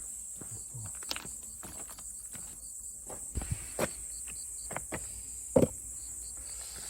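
Scattered light knocks and clicks, with one louder knock about five and a half seconds in, over faint insect chirping in short repeated trills.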